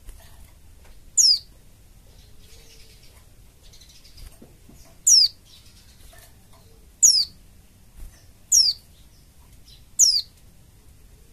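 White-eye (pleci) giving short, high calls that sweep quickly downward, five times at uneven intervals, over faint background chirping.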